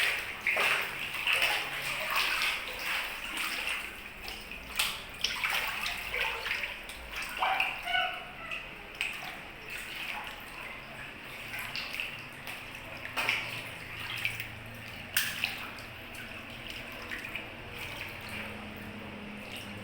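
Floodwater sloshing and splashing, with irregular sharp splashes over a steady wash of water.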